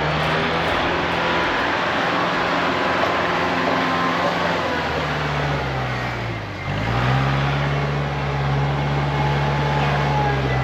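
Pickup truck's Cummins diesel engine running under way while hauling a load, with road noise. The engine note dips about six seconds in, then climbs back up and holds steady.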